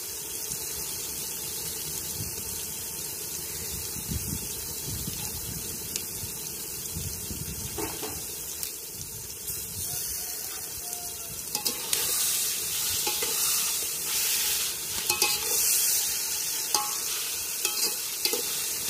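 Sliced onions, mint and coriander frying in oil in an aluminium pot with a steady sizzle after ginger-garlic paste is added. About two-thirds of the way in, a metal ladle starts stirring and scraping the pot, and the sizzle grows louder.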